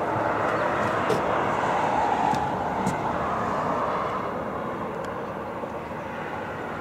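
Traffic noise from a nearby street: a vehicle passing, its sound swelling about two seconds in and slowly fading away.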